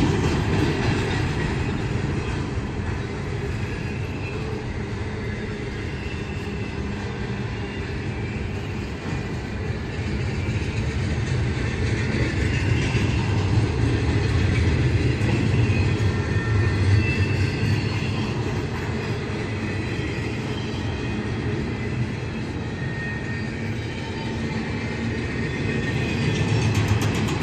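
A train's cars rolling past on the track: a steady rumble of wheels on rail, with faint high wheel squeals now and then.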